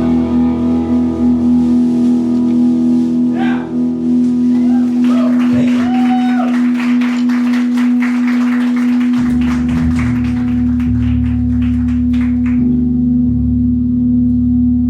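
Live rock band playing: a held electric guitar chord rings throughout, a run of quick drum hits comes in the middle, and heavy low end fills in about nine seconds in.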